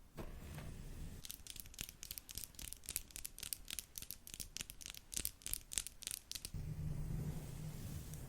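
Makeup brush bristles swept and tapped rapidly against a microphone, a quick run of short, crisp swishes, about four or five a second. Near the end they stop and a steady low hum remains.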